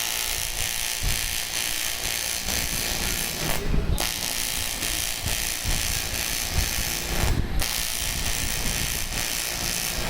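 TIG welding arc on aluminium, a steady hissing crackle as weld is built up on a shaft. The arc breaks off briefly twice, about three and a half and seven seconds in.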